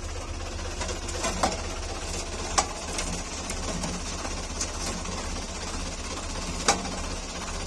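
Tractor engine idling with a steady low chug, with a few sharp clanks over it.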